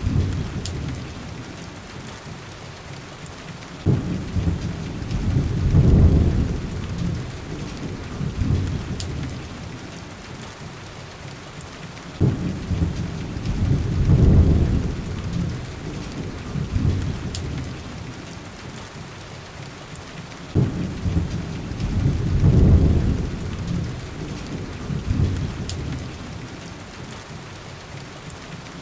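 Heavy rain falling steadily, with three deep rolls of thunder that each break in suddenly, swell and die away over several seconds, about eight seconds apart. A few faint sharp ticks sound over the rain.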